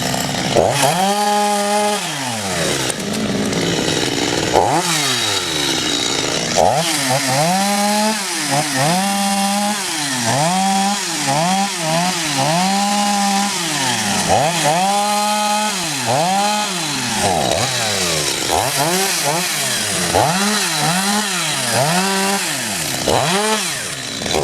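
Two-stroke chainsaw running hard, its engine rising to full revs and dropping back again and again, about once a second, as the throttle is worked through a cut. The sound cuts off suddenly at the end.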